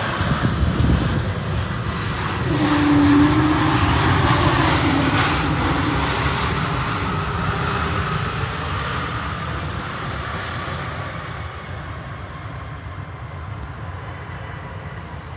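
Airliner coming in to land passing low overhead, its engine noise loudest about three seconds in and then slowly fading away.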